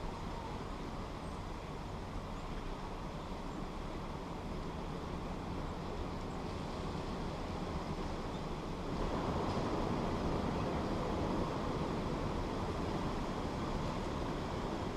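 Steady rumbling background noise with no distinct events, growing a little louder about nine seconds in.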